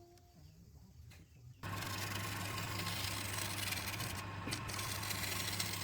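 Wood lathe running with a steady low motor hum and a noisy whirr. It starts suddenly about a second and a half in, after a quiet stretch.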